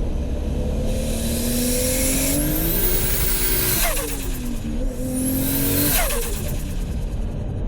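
Toyota Supra Mk4's turbocharged 2JZ straight-six pulling hard twice, the revs and a high turbo whistle rising together. At each lift-off the revs drop sharply, and the second drop is followed by rapid turbo flutter.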